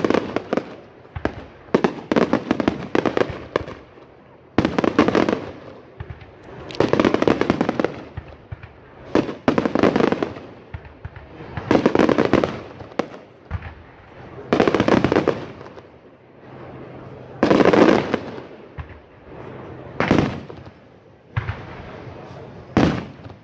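Fireworks display going off in repeated salvos: dense clusters of sharp, rapid crackling reports about every two to three seconds, with brief quieter gaps between volleys.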